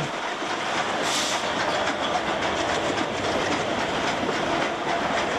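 Train running along the track, a steady noise with faint repeated clicks from the wheels. A short hiss comes about a second in.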